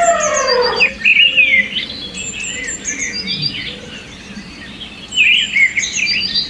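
Birds singing: many quick chirps and trills. In the first second a long held pitched call slides down and stops.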